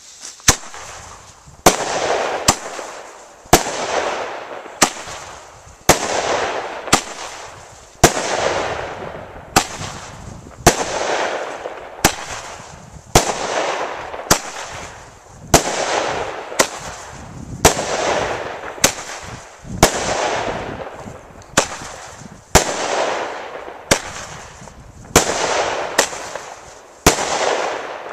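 Weco Poison/Aquila firework battery firing shot after shot, about one a second: each silver comet rises with a hissing rush and bursts with a loud bang.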